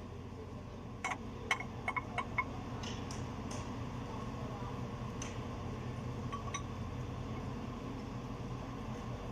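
A quick run of sharp metallic clinks, about six in a second and a half, then a few fainter ones, from hand tools knocking on metal parts during disassembly, over a steady low hum.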